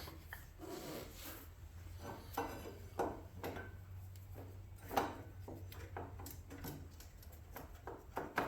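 Light, irregular handling noises of parts and tools: soft knocks and rubs, with sharper taps about three and five seconds in, over a faint steady low hum.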